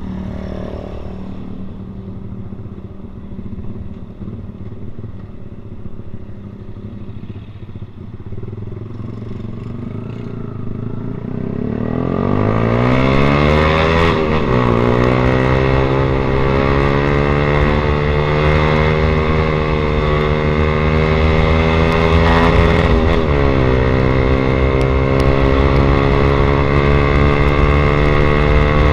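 Yamaha Vixion's single-cylinder four-stroke engine through an aftermarket SC Project exhaust, running steadily at first, then rising in pitch about twelve seconds in as it accelerates and holding a higher, louder steady note, with a brief dip and recovery about two-thirds of the way through.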